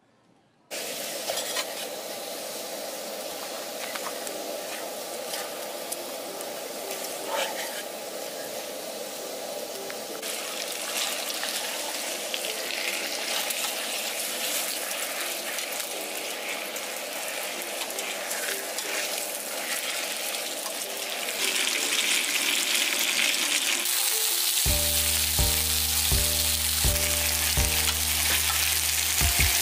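Food sizzling in hot oil, starting abruptly about a second in: shrimp and garlic spaghetti stirred in a frying pan, then strips of pork belly on a round griddle plate. The sizzle gets louder about two-thirds of the way through. Background music with a steady beat comes in near the end.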